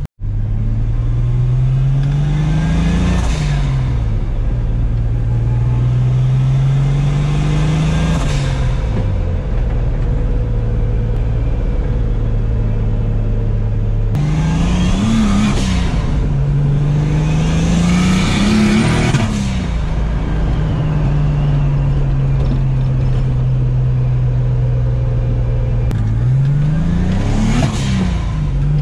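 Turbocharged BMW M52 straight-six in an E30 pulling up through the gears with a manual gearbox. The engine pitch climbs and then drops at each upshift, several times over, with steady cruising between. It is heard from inside a cabin stripped of carpet and sound deadening.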